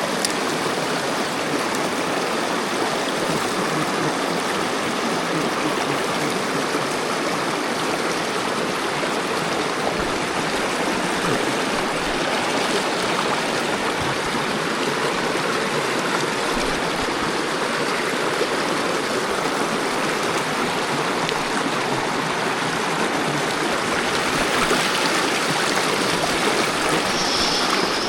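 Mountain stream water rushing steadily, a little louder near the end.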